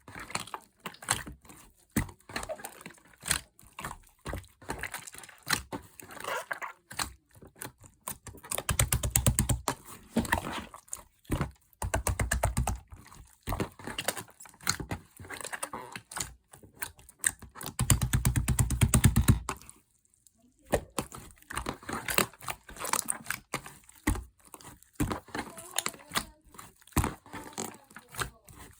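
Slime being pressed, poked and worked by hand, giving a run of sticky clicks and pops. Two spells of fast, dense squelching come about a third of the way in and about two thirds through, when the slime is mixed hard.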